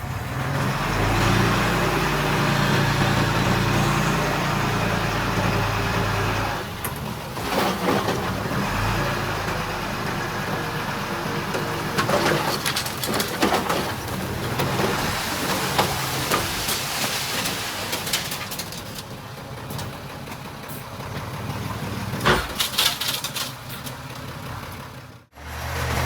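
Heavy earthmoving machinery's diesel engine running, loudest in the first six seconds, with scattered knocks over it.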